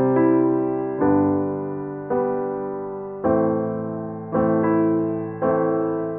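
Background music: slow piano chords, a new chord struck about once a second and left to ring and fade.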